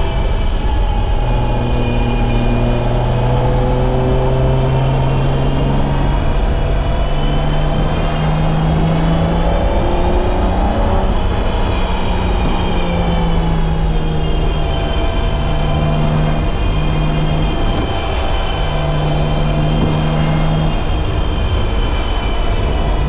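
BMW E30's M20B25 2.5-litre straight-six running hard under load, its revs climbing and dropping several times as the car is driven around a race track.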